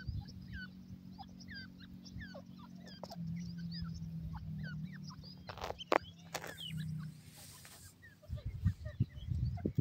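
Teetar (francolin) chicks peeping: many short, high, curved chirps scattered throughout, over a low steady hum. A few sharp clicks come just past the middle, and low rumbling knocks start near the end.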